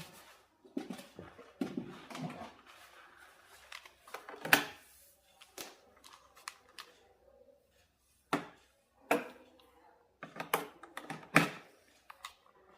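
Close-up handling noise: small clicks, taps and rustles of tools and small plastic parts being moved and set down. A handful of sharper knocks stand out, the loudest about four and a half seconds in and several more in the second half.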